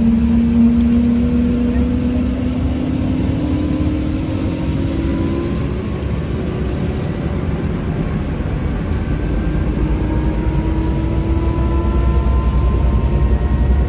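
Helicopter turbine engine starting up: whining tones rising in pitch over a steady heavy low rumble.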